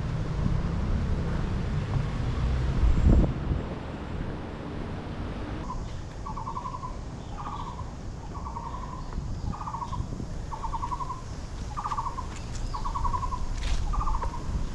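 Wind buffeting the microphone, with a thump about three seconds in. Then a bird calls over and over, a buzzy note about once a second, alternating between a falling and a level form.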